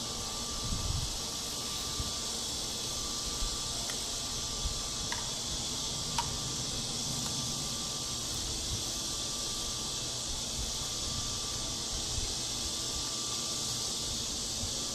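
Steady high-pitched insect chorus, with a faint thin tone that comes and goes and occasional low rumbles and small clicks.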